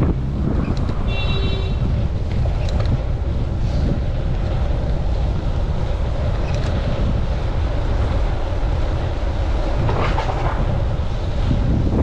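Strong gusty wind buffeting a chest-mounted camera's microphone on a moving bicycle, a loud, steady low rumble. A brief high squeal sounds about a second in.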